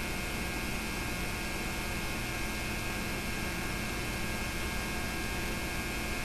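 Steady electrical hum with hiss and no other sound: the background noise of a home-movie tape transfer whose film was shot silent.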